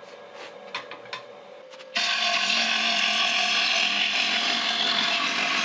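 A gouge cutting into a wooden bowl blank spinning on a wood lathe. It sets in abruptly about two seconds in as a loud, steady scraping hiss, after a few light clicks.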